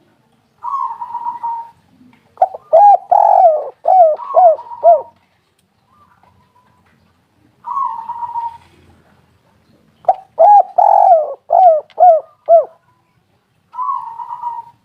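Spotted dove cooing: a short rolling note followed by a run of about five falling coos, the phrase given twice and begun a third time near the end.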